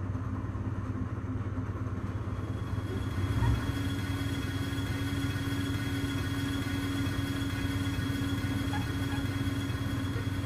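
Steady running drone of a passenger train heard from inside the carriage: a low hum with a faint steady whine above it, and a brief low thump about three and a half seconds in.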